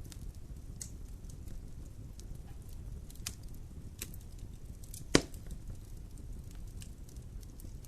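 Wood fire burning in a fireplace: a low steady rumble with scattered crackles, and one loud pop about five seconds in.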